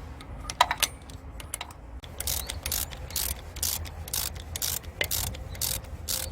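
Ratchet wrench worked back and forth on the engine in quick strokes, about two clicking strokes a second, after a few sharp metal clicks in the first second.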